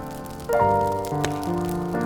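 Soft ambient music of keyboard chords, a new chord struck about halfway in and another near the end, each fading slowly, with faint crackles of a campfire underneath.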